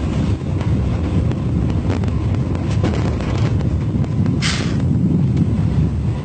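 Train running with a steady low rumble, faint regular ticks and wind on the microphone. A short hiss comes about four and a half seconds in.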